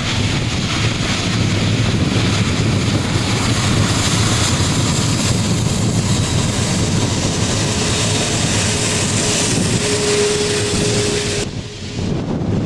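Jet airliner engines running, a loud steady rushing noise that stops abruptly near the end.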